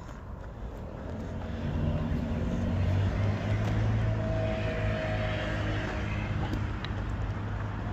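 A road vehicle's engine running close by with a steady hum, growing louder from about a second in and staying strong.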